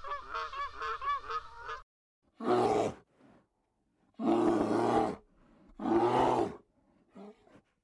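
A fast run of repeated honking bird calls that cuts off abruptly, followed by three loud, hoarse roaring calls from a large animal, each under a second long.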